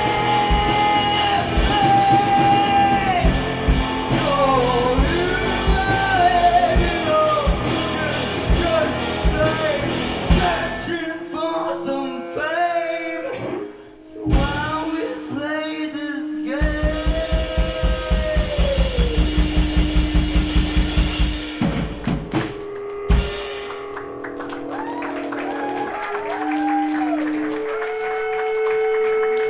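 Live gypsy rock band playing, with singing over guitar, bass, drums and accordion. About ten seconds in, the band drops away to voices alone. Then a steady drum pulse of about four beats a second comes in under a held note, and the song ends on sustained chords.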